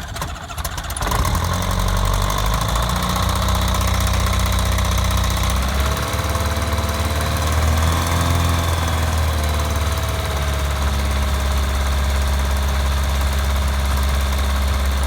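The Rotax 912ULS flat-four engine of a Just Aircraft SuperSTOL idling just after its first-ever start. About a second in it picks up and runs steadily louder. Around the middle its pitch rises slightly and falls back.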